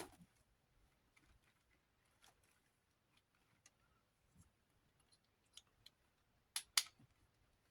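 Faint, scattered clicks and taps of small desk-fan motor parts being handled during reassembly, with two sharp clicks close together near the end.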